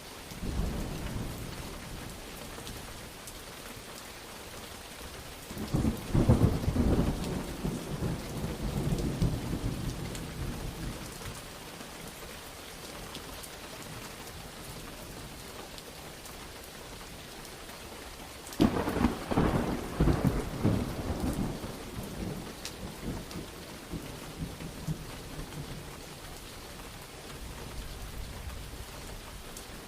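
Steady rain falling, with thunder: a soft rumble right at the start, then two loud claps of rolling thunder, the first a few seconds in and the second past the middle, each rumbling away over several seconds.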